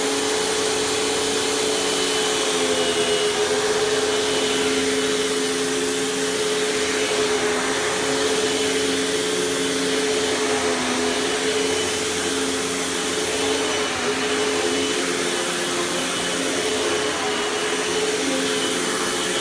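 Panasonic Performance Plus Platinum MC-UG589 upright vacuum running steadily after being switched on. Its 12-amp clean-air motor gives a steady whine over a rush of air.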